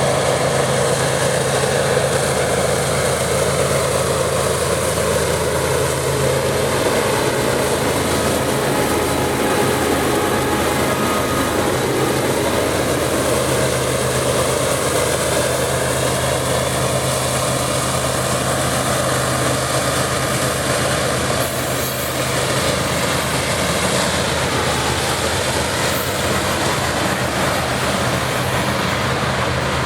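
Loaded coal train passing under power: steady diesel locomotive engine drone mixed with the running noise of heavy cars rolling on the rails.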